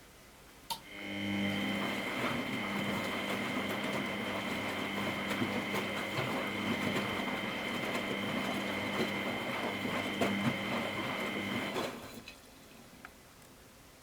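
Miele Professional WS 5426 washing machine: a relay click, then the motor starts up and turns the drum with a steady whine over churning water for about eleven seconds before stopping suddenly.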